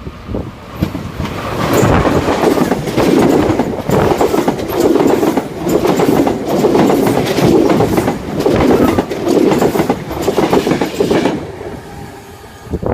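A train passing at speed on the Great Eastern Main Line, its wheels clattering in a steady rhythm of about one beat a second. It builds quickly about a second and a half in and drops away near the end.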